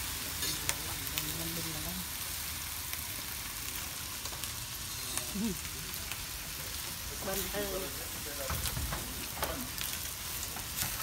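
Food sizzling in hot fat on a tabletop barbecue grill pan, a steady hiss broken by scattered crackles and pops, with faint voices in the background.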